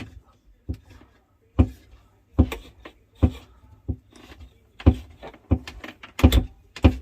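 Irregular knocks and scrapes, about nine in all, as a small pipe is worked into a dishwasher's drain pipe to clear a clog.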